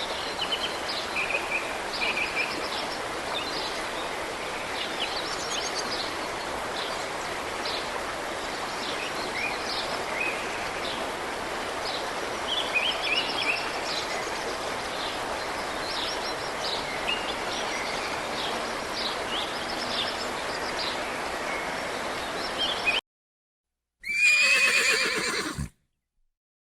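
A steady hiss of outdoor noise dotted with many short high chirps. After a brief silence, a horse whinnies once, loudly, with a wavering pitch that falls away over about a second and a half.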